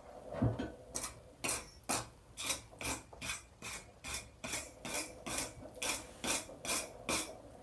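Steady, rhythmic metal strokes, a little over two a second, starting about a second in, as the front end of a hot, freshly forge-welded Damascus billet of 1084 and 15N20 steel is worked over.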